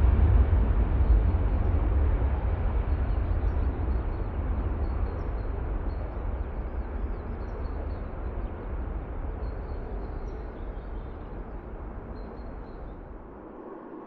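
Jet airliner engine roar, a deep rumble that fades steadily as the aircraft moves away from the runway-side spot.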